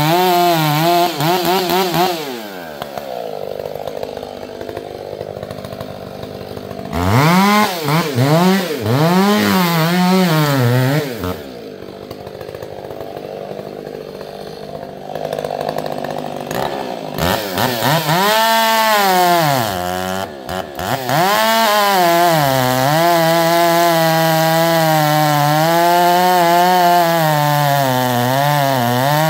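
Two-stroke chainsaw running at high revs, dropping to idle about two seconds in, blipped up and down several times, then held at full throttle from about two-thirds of the way through, its pitch sagging slightly as the chain bites into black walnut hardwood.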